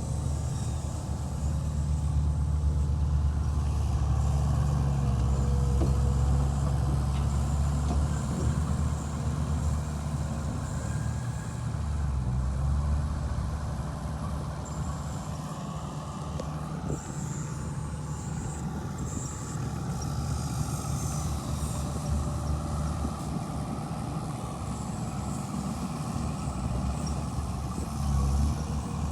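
Heavy diesel earth-moving machinery running under load, a low, steady engine rumble that swells and eases a little, with faint high metallic squeaks partway through.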